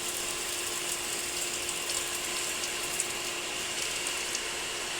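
Pool pump running steadily: an even mechanical hum with a constant low whine, and a few faint clicks.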